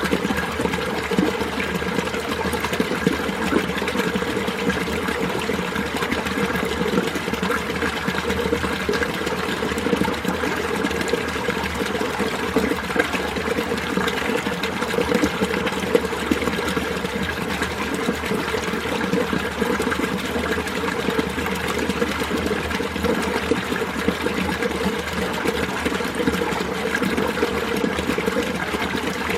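Winter mountain stream running steadily over rocks, a continuous splashing, gurgling flow.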